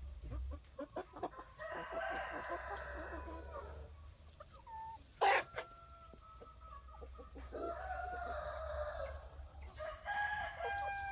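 Roosters crowing, three long crows in turn, with hens clucking between them. A few light clicks near the start and one sharp knock about five seconds in.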